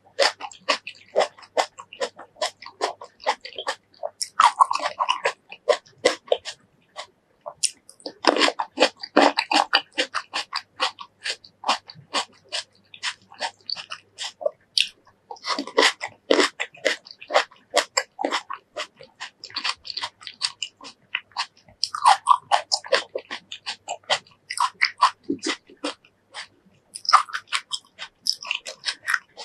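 Close-miked mouth sounds of someone biting into and chewing fresh fruit: rapid crisp, wet crunches and clicks in runs, with short pauses between.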